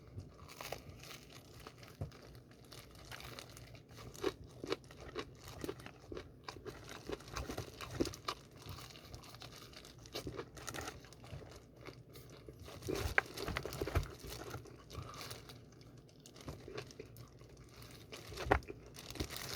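Fried chicken being eaten close to the microphone: scattered crunchy bites and chewing, with light crinkling, the louder crunches coming about two-thirds of the way in and near the end.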